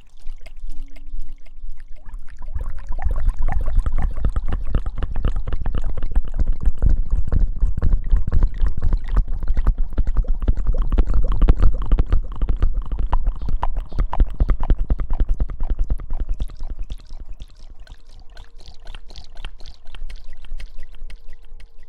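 Hair-washing ASMR: fingers scrubbing and rubbing right against the microphone, making a dense, rapid crackling with a rumbling low end. It builds about two seconds in and eases off near the end.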